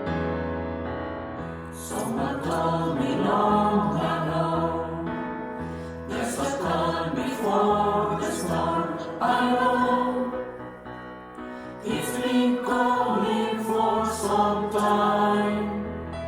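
Mixed choir singing in harmony with a keyboard accompaniment. Held accompaniment notes come first, and the voices enter about two seconds in and sing in several phrases.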